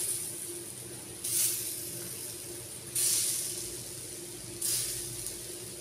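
Squares of set besan (gram flour) batter sizzling as they are laid one by one into hot mustard oil in a frying pan: a sudden hiss about every one and a half seconds, each fading away.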